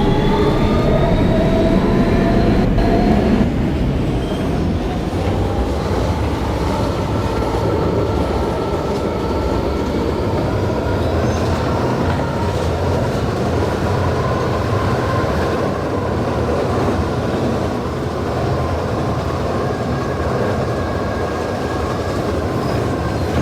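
Kawasaki R160B subway car with Siemens traction motors running at speed, heard from inside the car. The motor whine rises in pitch over the first few seconds, then settles into a steady whine over the rumble of wheels on rail.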